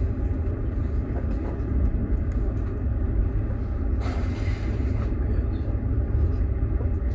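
Steady low rumble of a moving passenger train heard from inside a sleeper car, the wheels running on the rails, with a brief hiss about four seconds in.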